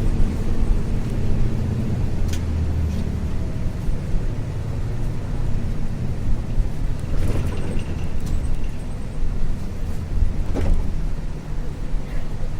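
Running sound heard from inside a 1994 Isuzu U-LV224N bus: its 6QB2 diesel engine pulling steadily under way, driving through a direct-drive five-speed manual gearbox. A few short sharp knocks or rattles from the cabin come through, about two, seven and ten seconds in.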